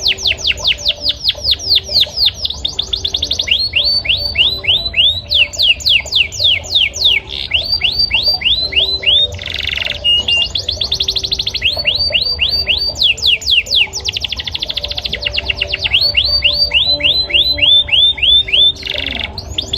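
Male yellow canary singing: runs of quick, repeated downward-sweeping whistled notes, about seven a second, changing from one run to the next. A much faster trill comes about two thirds of the way through, and there are two short harsh buzzy notes, one about halfway and one near the end.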